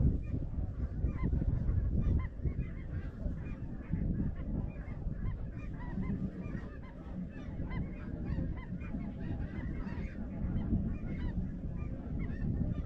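A flock of snow geese calling, many short overlapping calls, over a steady low rumble.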